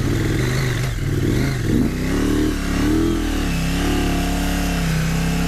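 Adventure motorcycle's parallel-twin engine revving hard under load while pushing through deep, soft sand. For about the first two seconds the revs surge up and down rapidly, then they hold higher with smaller rises and falls.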